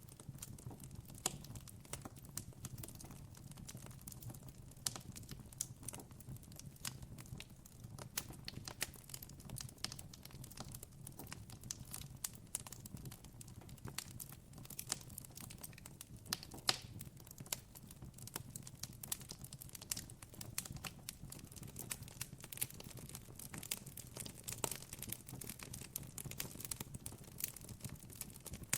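Wood campfire crackling and popping: dense, irregular sharp snaps over a soft steady low rumble of the flames.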